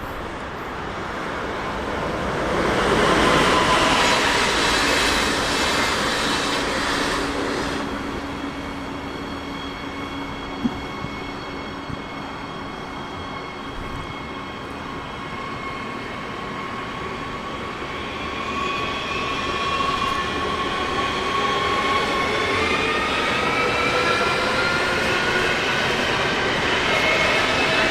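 Electric train running through the station: a loud rush of running noise a few seconds in, then a steady whine of several tones that begin rising in pitch in the second half, as the traction motors speed up.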